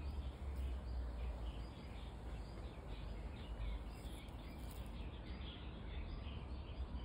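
Small birds chirping continually in the background over a steady low rumble.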